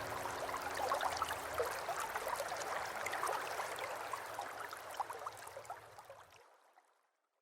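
Small aquaterrarium waterfall trickling and splashing, with many small droplet sounds, fading out near the end.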